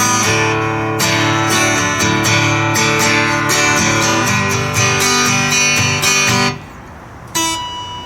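Acoustic guitar strummed in a steady rhythm, which stops about six and a half seconds in. About a second later a single chord is struck and left to ring.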